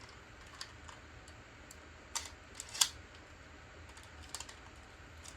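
Scattered light clicks and taps of plastic Beyblade tops being handled, with one sharper click nearly three seconds in.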